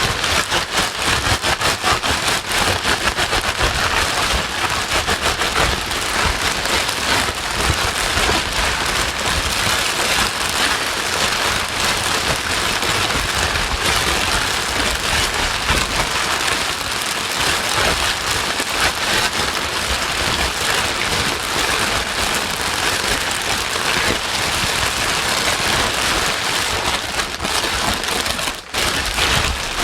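Continuous white noise that sounds like steady rain: an even hiss with a fine patter. It dips briefly near the end, then picks up again.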